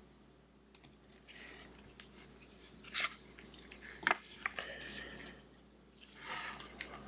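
Rustling and crinkling from trading-card packs and cards being handled and opened, with a few sharp clicks about three and four seconds in.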